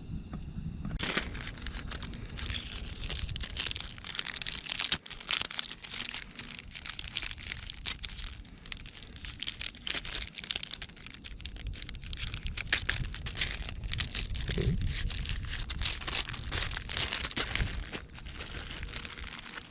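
Irregular crinkling and rustling handling noise, a dense stream of small clicks and crackles.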